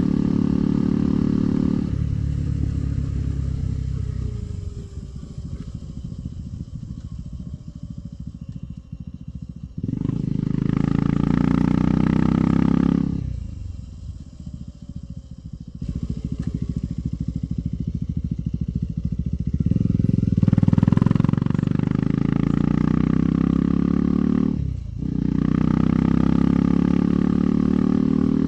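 KTM 390 Adventure's single-cylinder engine on the move, alternately pulling under throttle and rolling off. Its pitch falls and it runs quieter for several seconds at a time, then the throttle opens again and the note rises. Near the end there is a brief cut in the engine note.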